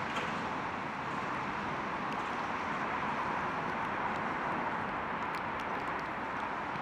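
Steady hiss of a rainy city street: falling rain and distant traffic, with a few faint light ticks.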